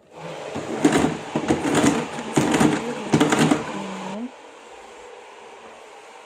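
Vacuum cleaner running, loud with repeated surges for about four seconds, then dropping to a quieter, even hiss.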